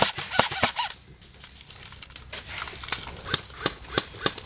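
Airsoft guns firing: a quick string of sharp shots in the first second, then scattered single shots over the next couple of seconds.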